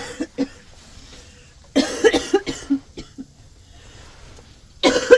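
A woman coughing in fits from a cold with fever: a short cough at the start, a run of several rapid coughs about two seconds in, and another hard bout near the end.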